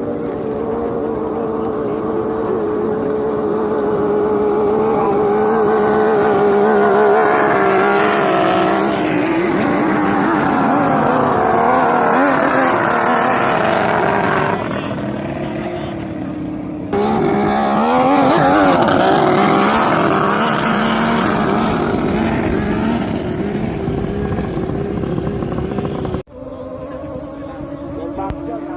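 Racing boat engines running hard and continuously, their pitch wavering and gliding as they pass; the sound cuts abruptly twice, about seventeen and twenty-six seconds in.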